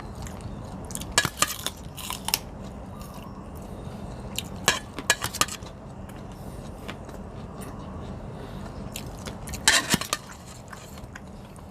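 Cutlery and dishes clinking in a few short clusters of sharp clicks, with chewing in between, over a steady low hum.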